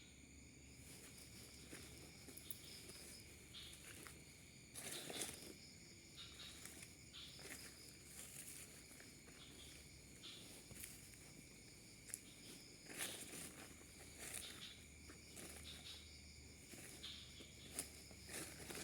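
Insects chirring steadily in high, continuous tones, with intermittent footsteps and rustling in undergrowth, the loudest bursts about five seconds in and again around thirteen to fourteen seconds.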